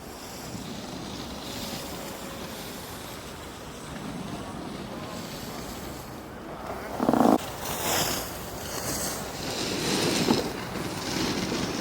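Sliding down a ski slope: wind rushing over the microphone and the steady hiss of edges on snow, with louder scraping surges from about seven seconds in.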